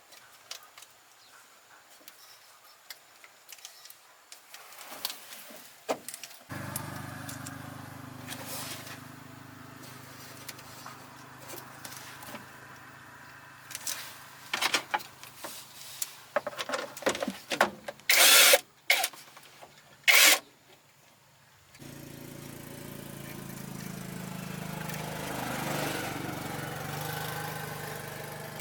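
A motor starts abruptly and runs steadily for about fifteen seconds, with several very loud short bursts of noise over it near the middle, then cuts off. A second engine-like running sound follows, swelling and then easing off. Before the motor starts there are only light clicks and knocks.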